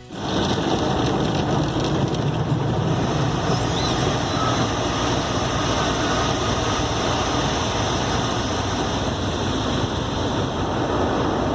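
Automatic car wash machinery running, heard from inside the car: a loud, steady rushing noise with a low hum that starts abruptly.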